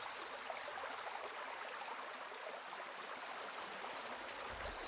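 Shallow rocky stream running steadily, with a high chirping repeated about four times a second, typical of an insect, which drops out briefly in the middle and returns about three seconds in.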